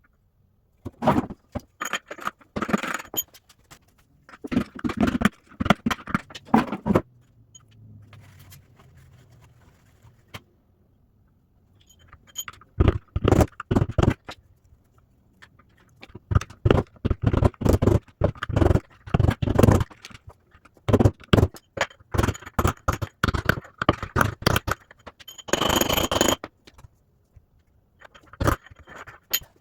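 Hammer driving a steel punch against the old drum bearings in an LG washer's tub: bursts of quick metal strikes with short pauses between, knocking the bearings out.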